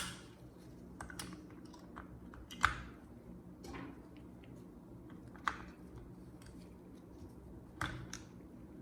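Scattered sharp clicks and light knocks, four louder ones spread a couple of seconds apart among fainter ticks, over a low steady hum.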